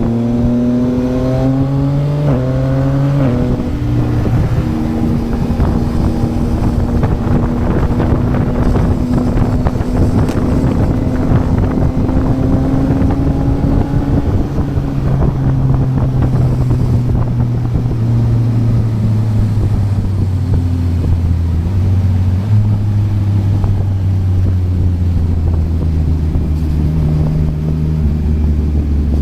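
Yamaha MT-09's inline three-cylinder engine through a Yoshimura R11 exhaust, riding. The revs climb and drop back with quick upshifts in the first few seconds. It then runs coarse at steady revs and settles to a lower, slowly falling pitch over the second half as the bike eases off.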